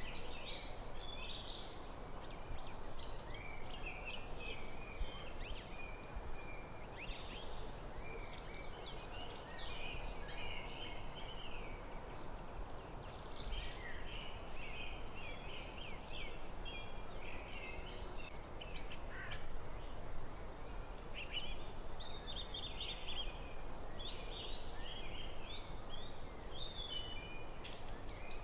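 Forest birdsong: many short chirps and trills from several birds, over a steady low background hiss.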